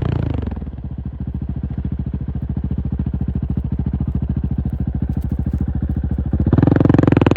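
KTM 690 SMC R's single-cylinder engine dropping back to idle with an even, rapid pulse. Near the end it is opened up again and the note grows louder and fuller.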